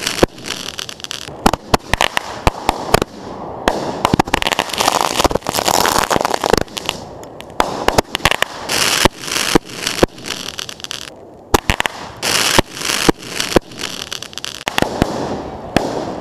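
Ground-launched consumer fireworks firing a finale barrage at very close range: a dense, rapid run of sharp bangs over continuous crackling and hissing, swelling and easing in waves.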